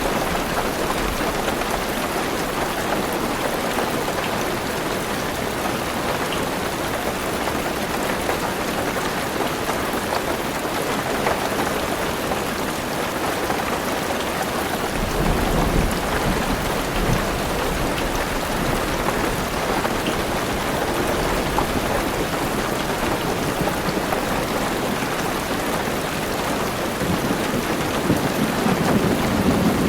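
Heavy rain drumming on a car roof, heard from inside the car. A low rumble of thunder comes in about halfway through and rolls again, louder, near the end.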